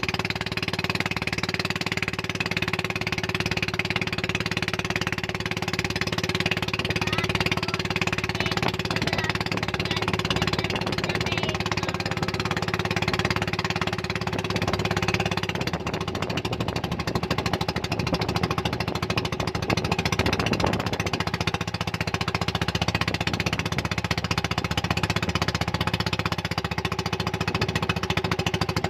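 Motorboat engine running steadily at a constant speed, with a fast, even pulsing beat.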